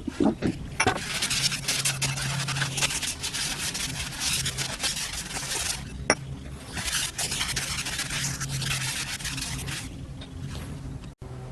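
Abrasive rubbing on a workpiece in two long passes with a short break between, with a few sharp ticks and a low steady hum underneath.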